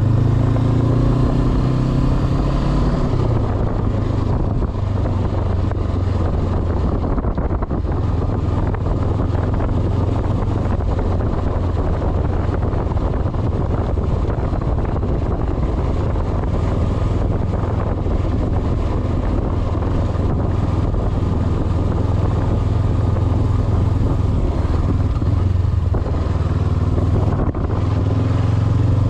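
Honda CB500X's parallel-twin engine running under way, with a rush of wind and tyre noise on a gravel track. The engine note drops a little a few seconds in and picks up again near the end.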